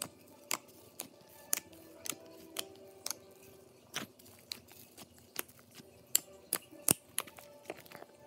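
Slime being squeezed and poked, making sharp clicking pops about twice a second at uneven spacing.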